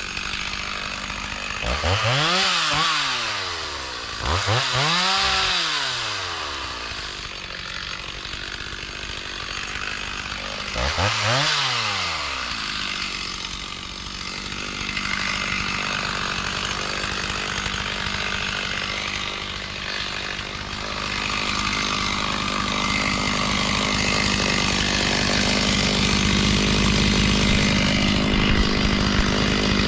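Chainsaw running through brush, revved up and back down three times in the first dozen seconds, then held at a steady cutting speed that grows louder toward the end.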